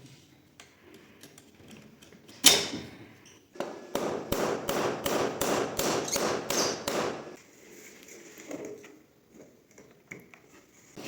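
Hammering: one sharp blow about two and a half seconds in, then a quick, even run of about a dozen blows, about three a second, lasting nearly four seconds.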